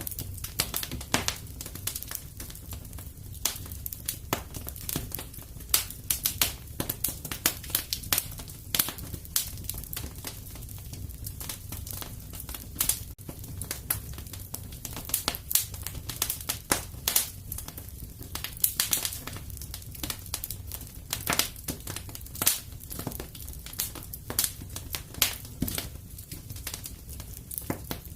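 Wood fire crackling and popping: irregular sharp snaps over a low, steady rumble of burning.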